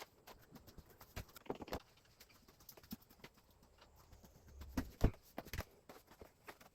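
Irregular light clicks and knocks of plastic parts of a wall-mounted air conditioner being handled during disassembly, with a louder knock about five seconds in.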